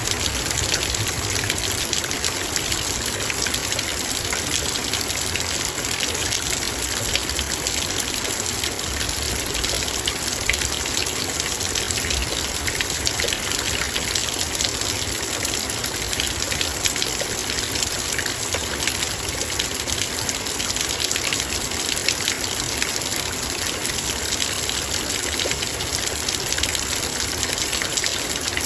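Heavy rain falling steadily on a metal bowl: a dense, even hiss of drops peppered with many small ticks.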